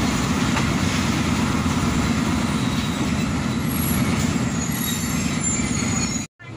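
Steady rumble of a passenger train coach running along the track, heard from beside the coach, with faint high wheel squeals around four seconds in. The sound cuts off abruptly just before the end.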